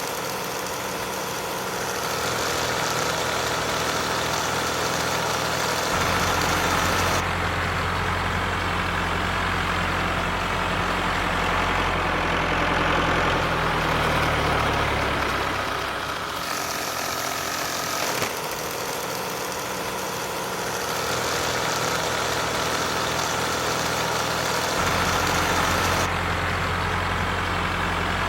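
A motor or engine running steadily, its low hum and hiss changing abruptly several times.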